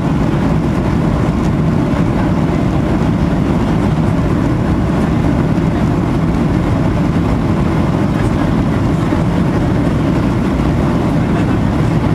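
Steady low rumble of an airplane's engines and rushing air, unchanging in level throughout.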